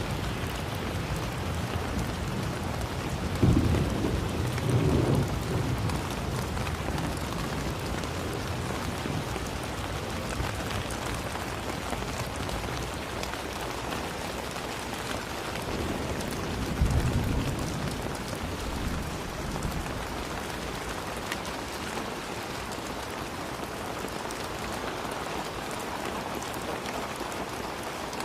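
Steady heavy rain falling, with two low rumbles of thunder, one about three seconds in and another about seventeen seconds in.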